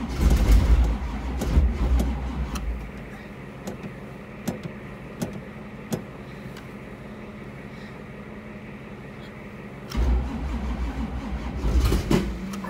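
1985 Camaro Z28's V8 engine running roughly on a freezing cold start, which the owner says has blow-by in one cylinder and is spewing oil out the exhaust. The loud running fades after about three seconds to a quieter steady hum with a few clicks, then about ten seconds in the engine sound surges loudly again.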